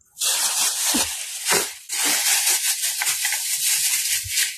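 Loud, close rustling and crackling noise with many fine crackles and a brief pause about two seconds in.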